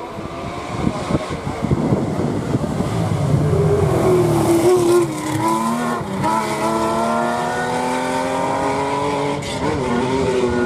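Historic rally car engine accelerating hard through the gears, its pitch climbing steadily between shifts, with upshifts about five to six seconds in and again near the end.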